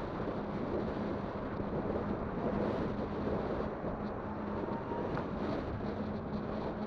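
Wind buffeting the microphone of a Kugoo Kirin V5 electric bike while it rides along, with a steady low hum from its motor underneath.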